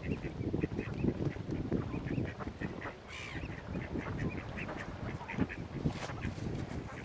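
A flock of mallard ducks and other waterbirds calling over food: a dense, overlapping run of short quacks and calls, with one louder call about three seconds in.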